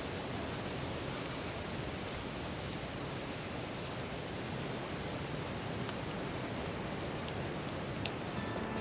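Campfire burning with a steady hiss and a few faint crackles scattered through it.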